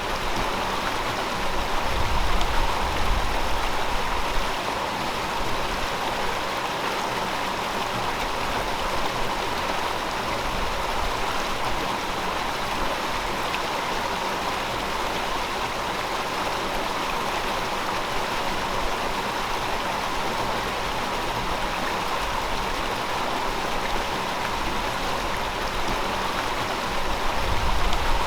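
River water flowing steadily over rocks, a continuous rushing and babbling, with a little more low rumble a couple of seconds in and again near the end.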